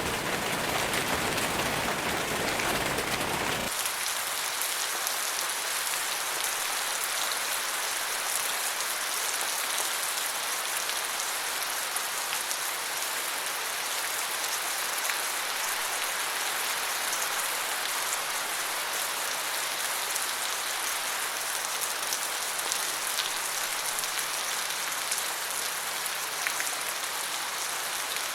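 Steady rain falling in a forest, a dense hiss of drops with fine individual ticks. About four seconds in the sound changes abruptly, its deep rumble dropping away to leave a lighter, higher hiss.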